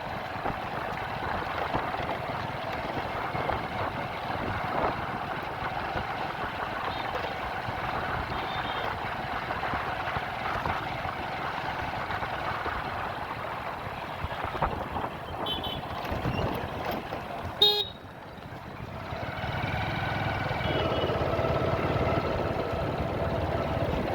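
Riding a motorcycle in road traffic: steady wind and road rush, with vehicle horns honking. One loud, short horn blast comes about three-quarters of the way in, and the rush then eases into a steadier engine hum.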